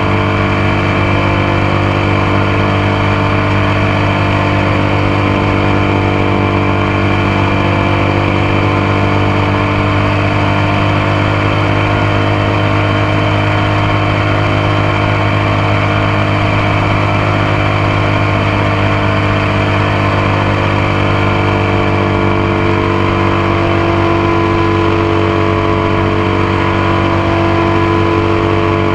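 Motorcycle engine running steadily at an even pitch, close up, with road and wind noise beneath it.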